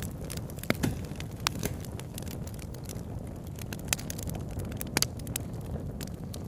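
Wood campfire crackling, with a handful of sharp pops over a steady low rush, likely the river running past.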